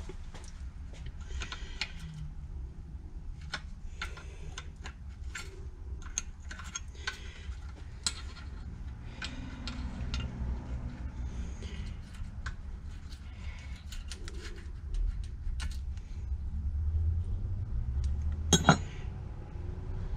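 Hand tools and small metal engine parts clicking and clinking irregularly while the governor is worked loose inside a 12 hp Briggs & Stratton engine. There is a sharper metallic click near the end, over a low steady hum.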